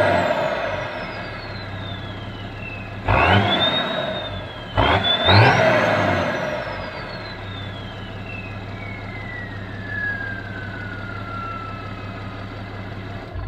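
Turbocharged diesel engine being free-revved. Three short throttle blips come about three, five and five and a half seconds in, and each sends the turbo's high whistle up in pitch. After the last blip the whistle slowly falls away as the engine drops back to a steady idle.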